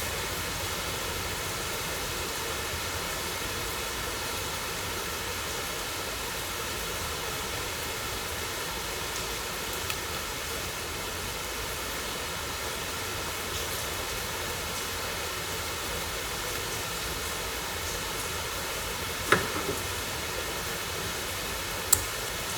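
Steady whirring hum with faint steady tones, like a small fan or motor running, broken by a few sharp clicks: one at the start, one about 19 seconds in and one near the end.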